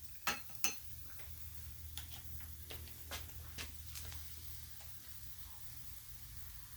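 A person eating charcoal-grilled quail: sharp clicks and small crunches of biting and chewing, the two loudest under a second in and a scatter of smaller ones a few seconds later, over a steady low hum.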